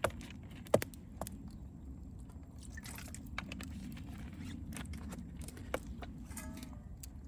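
Campfire crackling: irregular sharp pops and snaps over a steady low rumble, with a brief wavering whistle about six and a half seconds in.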